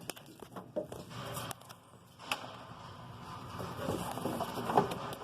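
Scattered light clicks and knocks, then a rising rubbing noise toward the end, as a rubber cooling hose is handled and pulled on a resistance welding machine.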